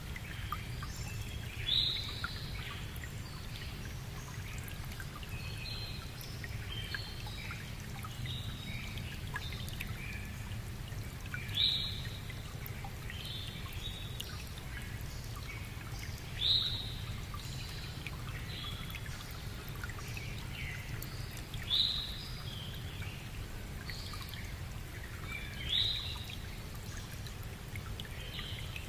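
Birds calling and chirping over a steady low rumble of outdoor noise, with one louder short call heard five times, a few seconds apart.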